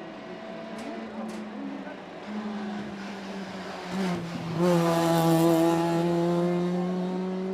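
Hill-climb race car engine coming up the course: faint at first, it jumps sharply louder about two-thirds of the way through, then its note rises steadily under hard acceleration.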